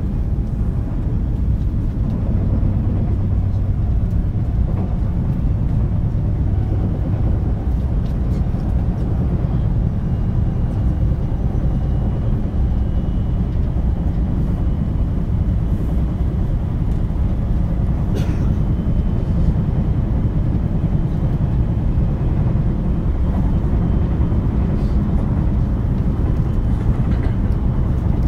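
Running noise of a JR West 223 series electric train heard from inside the KuMoHa motor car, a steady rumble of wheels on rail with a faint high whine in the second half. The rolling carries the knocking of a flat spot on a wheel, an abnormal flat sound.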